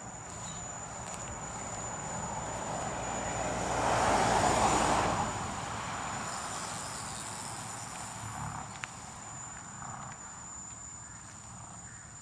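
A vehicle passing by, its noise swelling to a peak about four to five seconds in and then fading away. A steady high-pitched insect drone sounds underneath.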